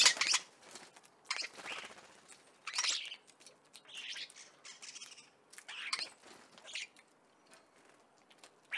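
A wild bird calling: a string of short calls, roughly one a second, that stops near the end.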